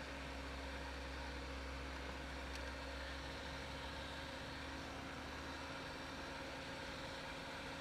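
VAZ-2121 Niva running steadily on the move, heard from inside the cabin: a constant low engine drone over an even rush of road and wind noise.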